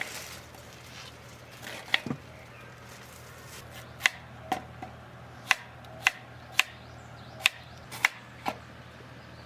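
Knife chopping on a cutting board: about ten sharp, separate knocks, roughly one every half second, beginning about two seconds in.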